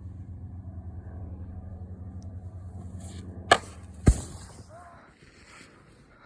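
Snowboard hitting the pickup's flatbed: a sharp knock, then about half a second later a louder, deeper thud, over a steady low hum that fades soon after.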